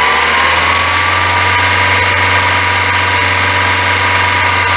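Volkswagen Gol engine running at raised revs, steady, with a whining noise over it. The mechanic suspects the timing belt: it seems to be rubbing at the water pump edge and cover.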